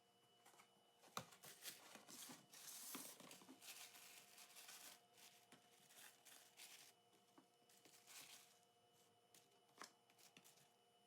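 Faint rustling and crinkling with a few light clicks and knocks, as vegetables and their plastic wrapping are handled and put into mesh baskets.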